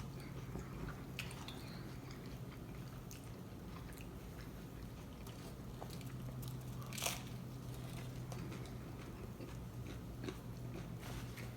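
A person chewing and biting into tacos, with scattered crunches and one louder crunch about seven seconds in. A steady low hum runs underneath.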